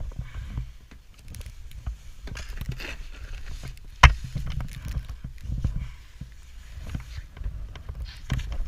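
Snow being dug out by hand: irregular crunching and scraping with low thumps, and one sharp knock about four seconds in.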